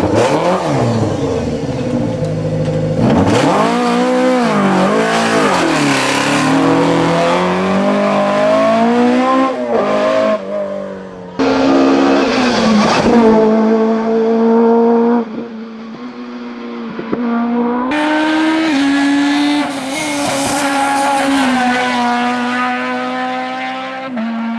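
Hill-climb race car engines revving hard, their pitch climbing and dropping again and again as the cars accelerate and shift, in several short clips with abrupt cuts between them.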